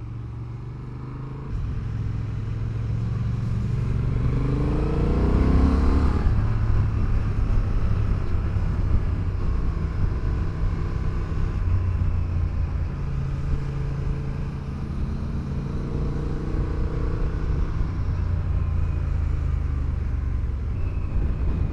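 Honda Hornet 1000 motorcycle engine pulling under acceleration, its pitch rising over the first few seconds, then cruising steadily with wind rushing past. The pitch climbs again for a while later on.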